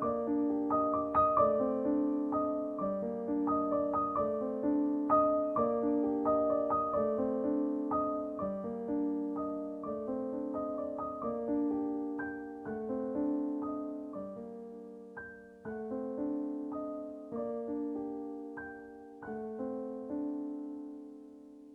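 Background piano music: a gentle melody of struck notes that gradually fades out near the end.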